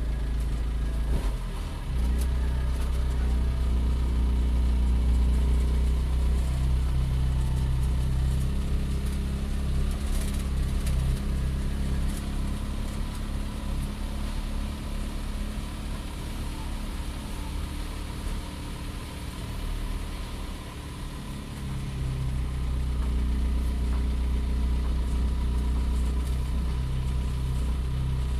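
An engine running steadily with a low hum; it eases off for several seconds in the middle, then picks up again.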